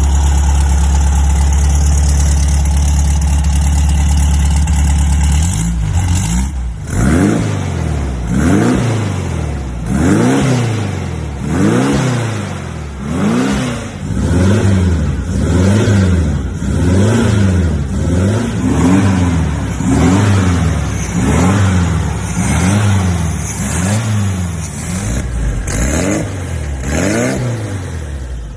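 Vintage car engine and exhaust idling steadily for about five seconds, then revved up and down over and over, about once a second.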